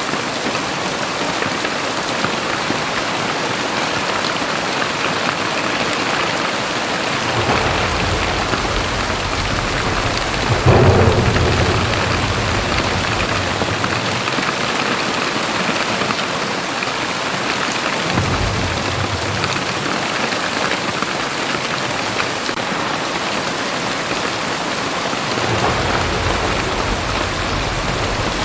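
Heavy rain pouring steadily, with thunder rumbling several times; the loudest clap comes about ten seconds in.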